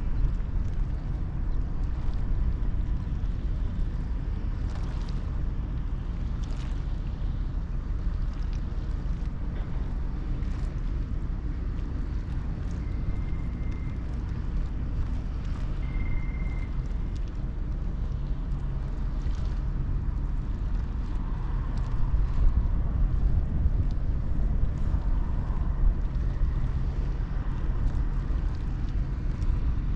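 Steady low rumble of a large ferry's engines, with wind buffeting the microphone.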